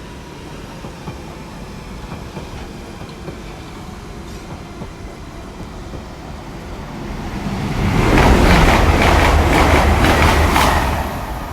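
Five-coach GWR Class 800 IET train running through the station. A low rumble grows from about seven seconds in into a loud passing-train sound with a rhythmic clatter of wheels on rail joints, easing off near the end.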